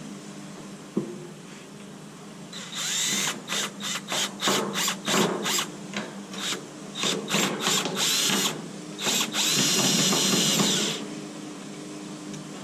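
Power drill run in a series of short trigger pulses, then held for one longer run of about two seconds near the end.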